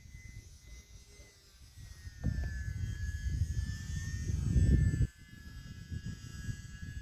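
E-flite UMX Turbo Timber RC plane's electric motor and propeller, a steady high whine that drifts slightly lower in pitch. Wind rumbles on the microphone, gusting louder from about two seconds in and cutting off suddenly about five seconds in.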